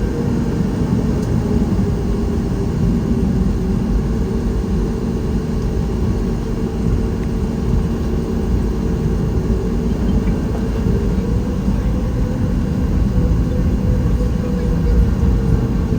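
Steady cabin rumble of a Boeing 737 MAX 8 with its CFM LEAP-1B engines running, heard from inside the passenger cabin: a loud, even low roar with a constant hum.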